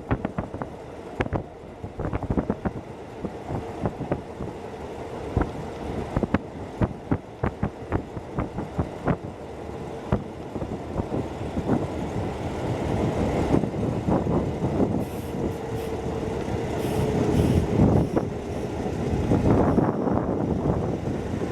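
Hokuso Railway 7260 series electric train running, heard from inside the front car. Wheels click and knock over rail joints under a steady running hum, which grows louder in the second half.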